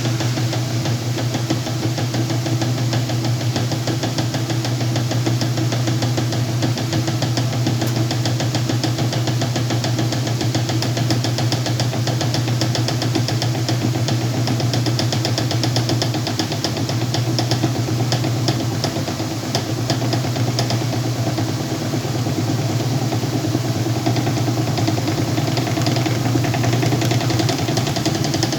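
Whirlpool washing machine running with a load of blankets: a steady motor hum with a fast, continuous rattle over it.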